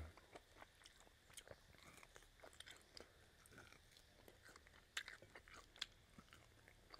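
A person chewing and gnawing pork rib meat off the bone: faint smacking and small scattered clicks, with a few sharper clicks about five and six seconds in.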